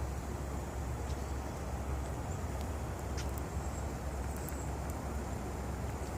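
Strong wind blowing steadily, buffeting the microphone with a constant low rumble.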